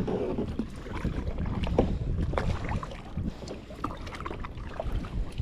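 Kayak paddles dipping and splashing in the water with irregular drips and splashes, over low wind rumble on the microphone.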